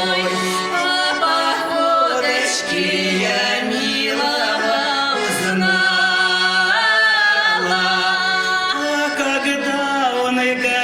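Voices singing a Russian folk song, drawing out long held notes between the lines of the verse.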